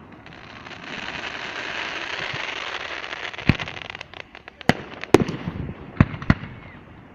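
Fireworks: a dense crackling shower for about three and a half seconds, then a run of sharp bangs, about five loud ones, in the second half.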